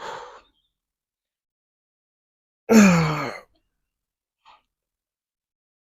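A man breathing hard with effort during bicep curls: a short exhale at the start, then a loud voiced grunt falling in pitch about three seconds in, and a faint breath near the end.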